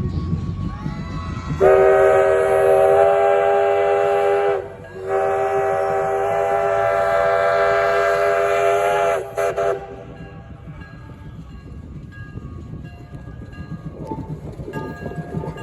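Big steam locomotive's whistle sounding a chord in two long blasts, about three and four seconds, the pitch sagging slightly as each ends, followed by a couple of quick short toots. A low train rumble runs underneath.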